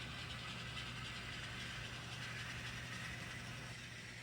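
N scale model train running on track, a steady mechanical running noise, with the lead locomotive's sound decoder playing diesel engine sound through its small speaker.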